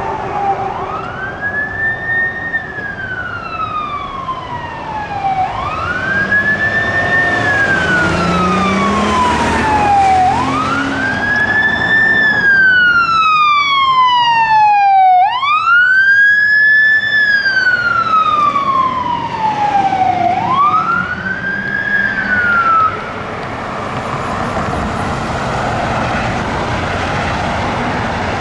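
Sacramento Metro Fire District Air 112's siren wailing in rising-and-falling cycles about every five seconds, loudest around the middle as the rig passes. The siren cuts off near the end, leaving the vehicle's engine and road noise.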